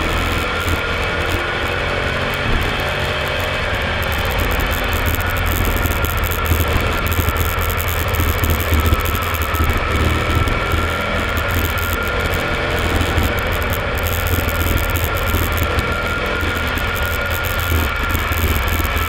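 Mercedes-Benz R230 SL500's 5.0-litre V8, breathing through an SL55 AMG exhaust system, running steadily with a deep low rumble and no rise or fall in revs.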